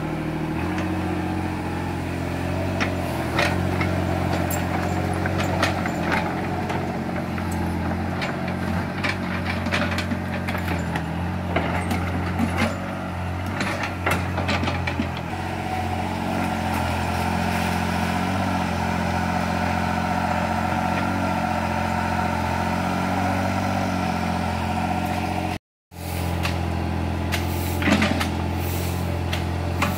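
Small hydraulic excavator's diesel engine running steadily under work, with scattered clanks and knocks through the first half and another near the end. The sound cuts out for a moment about two-thirds of the way through.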